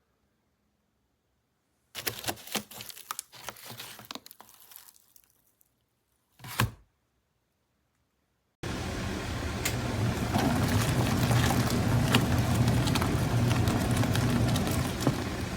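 Rustling and clicks of handling, then a single knock, and then a small washing-machine motor starting up abruptly and running with a steady low hum and a churning rattle.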